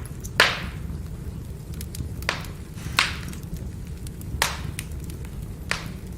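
Burning firewood crackling over a steady low rumble, with five sharp, loud pops spaced irregularly a second or so apart.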